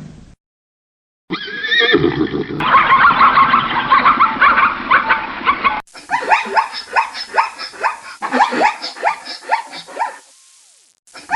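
Animal calls in two short clips: first a stretch of pitched calling, then, after an abrupt cut, a rapid series of short falling calls, about three a second.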